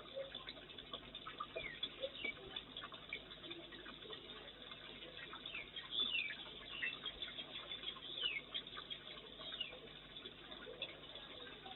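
Small birds chirping, with short high calls that fall in pitch, the loudest a few around the middle, over a steady patter of faint ticks, heard through a security camera's thin microphone.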